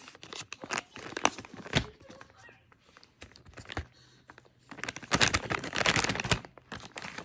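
Plastic packaging and containers being handled: scattered clicks and light knocks, then a louder stretch of crinkling about five seconds in.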